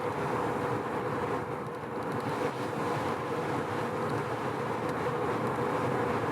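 Mazda FD3S RX-7 cruising steadily on an expressway: a continuous drone of its rotary engine and tyre and road noise, with a steady hum. The freshly rebuilt engine is being run in, so it is held at gentle, even revs.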